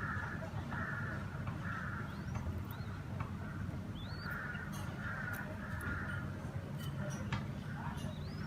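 Outdoor birds calling: two runs of about three harsh, hoarse calls each, one near the start and one from about four to six seconds in. A few thin, rising chirps from a smaller bird come in between. A steady low rumble runs underneath.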